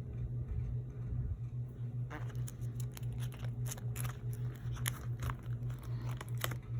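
Pokémon cards and their plastic being handled: a run of crinkles and sharp clicks starting about two seconds in, over a steady low hum.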